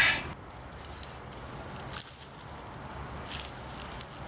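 A cricket chirping in a steady, high, rapidly pulsing trill, with a few sharp clicks scattered through it.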